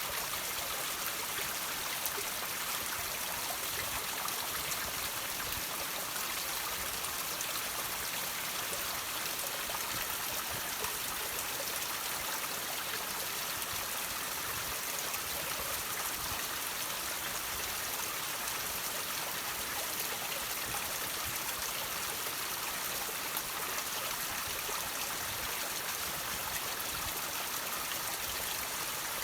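Water trickling and dripping from rocks: a steady splashing hiss with many small droplets landing.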